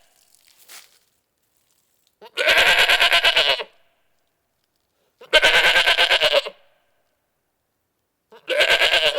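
Goat bleating: three long, quavering bleats about three seconds apart, separated by silence, with the third cut off at the end.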